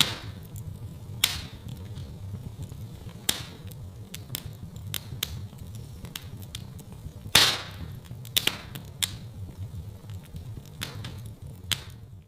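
Wood fire crackling in a fireplace: irregular sharp pops and snaps, the loudest about seven seconds in, over a steady low rumble of the flames.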